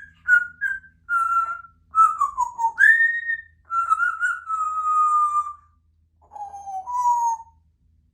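Congo African grey parrot whistling a string of clear notes: a few short notes, a falling glide, a rising one, a long held note, then two lower notes near the end.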